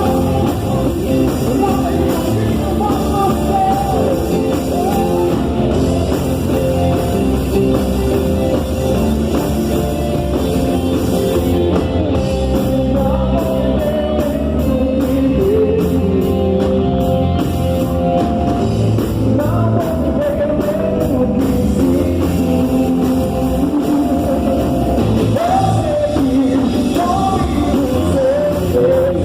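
Loud live worship band playing an upbeat rock-style praise song, with a singer's voice carrying the melody over it.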